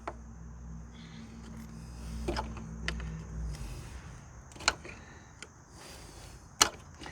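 A few scattered sharp clicks and knocks of small parts and tools being handled, the loudest about two-thirds of the way through, over a low steady hum that stops about halfway in and a faint constant high hiss.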